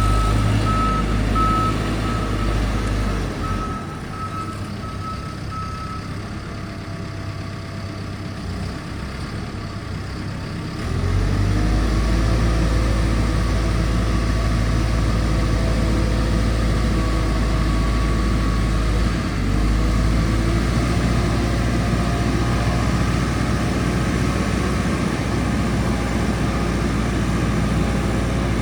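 Caterpillar TL1055 telehandler's diesel engine running, with its reverse alarm beeping steadily for the first several seconds. The engine runs quieter from a few seconds in, then comes up louder again about eleven seconds in and holds steady.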